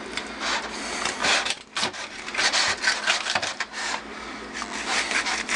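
A kitchen knife sawing back and forth through a chicken's wing joint and skin, in repeated irregular rasping strokes with the blade scraping the cutting board. The knife is a little dull, so it takes many strokes.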